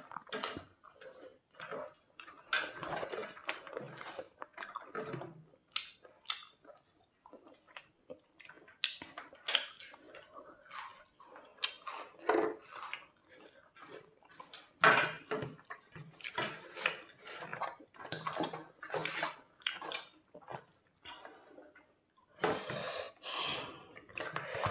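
Close-up eating sounds: irregular wet chewing and smacking of curry-soaked food.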